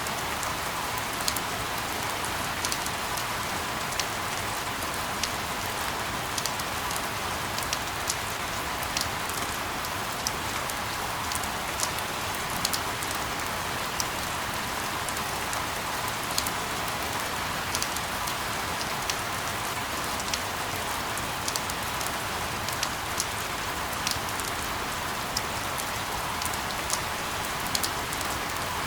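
Steady rain falling on a surface: an even hiss with frequent sharp, irregular ticks of single drops.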